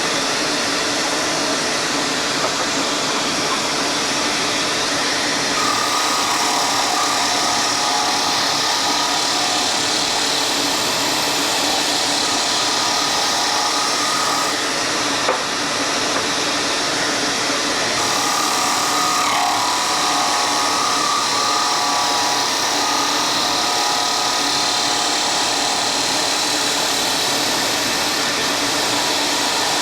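A woodworking power tool running steadily with an even rushing noise. A fainter higher tone joins in twice for several seconds each time, and there is a single click midway.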